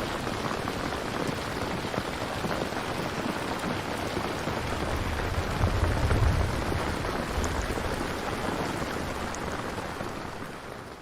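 Steady rain with a low thunder rumble swelling about halfway through, then fading out near the end.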